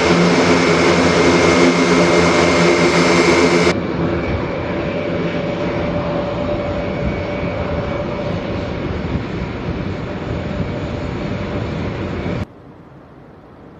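Airbus A400M's four turboprop engines and propellers droning in flight, with a steady hum of evenly spaced tones. The sound changes abruptly twice, dropping in loudness about four seconds in and dropping sharply near the end.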